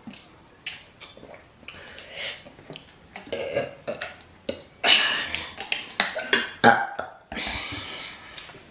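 Noisy close-up eating: mouth smacking, chewing and slurping of rice and stew, broken by many sharp clicks, with a longer slurping stretch near the end.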